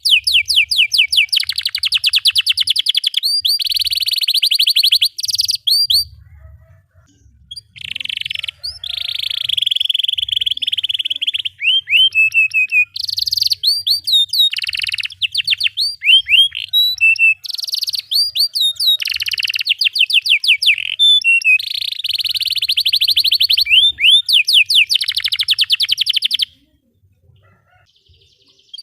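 Domestic canary singing a long song of fast rolled trills, each made of rapid repeated falling notes, with chirps between them. The song pauses briefly about six seconds in and stops a couple of seconds before the end.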